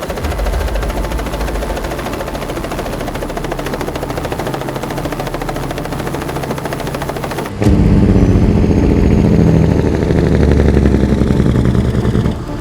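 Heavy diesel truck engine running with a rapid, even popping rumble, then an abrupt switch about seven and a half seconds in to a louder, deeper engine run that drops away near the end.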